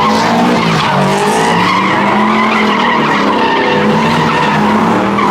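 A car spinning its tyres in a burnout, the tyres screeching against the pavement while the engine is held at high revs, its pitch wavering up and down.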